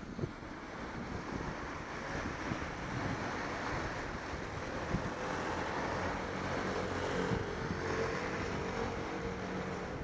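Wind rushing over the microphone of a rider on the move, over a low road rumble; a steady hum joins about halfway through.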